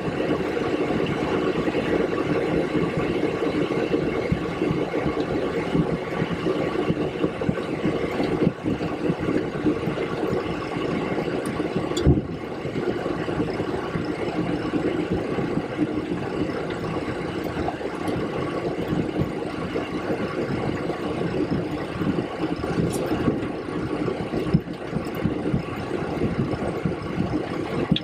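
Steady noise inside the cockpit of a Boeing 727-200 on the ground, its three Pratt & Whitney JT8D engines idling, with several steady tones in it. A single sharp click about twelve seconds in.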